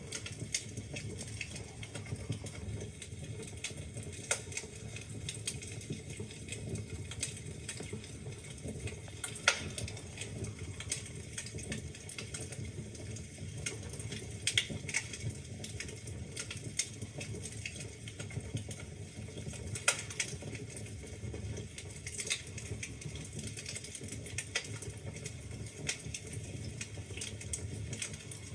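Wood fire burning in a fireplace: a steady low rumble of flames with irregular crackles and pops, a few of them sharper and louder.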